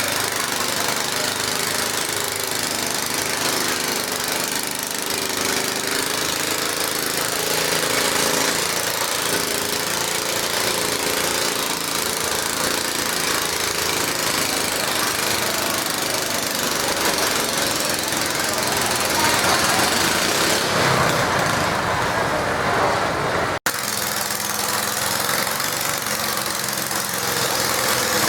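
Garden tractor engine running loud and steady, with a rougher, noisier stretch near the end that cuts off suddenly before the engine sound picks up again.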